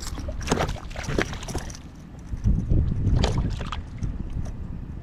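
Wind buffeting the microphone on a kayak, loudest about two and a half to three and a half seconds in, with water around the hull and a few short sharp knocks.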